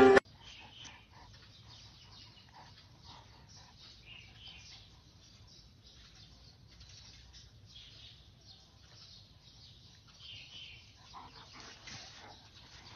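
Music cuts off just as it begins; then a faint background with scattered, distant bird calls, a little busier near the end.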